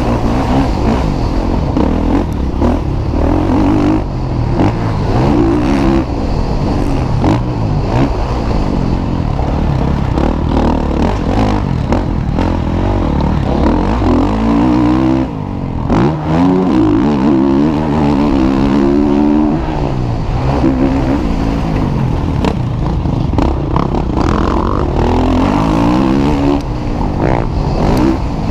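Motocross motorcycles racing, their engines revving up and dropping off again and again as the riders open the throttle and shift.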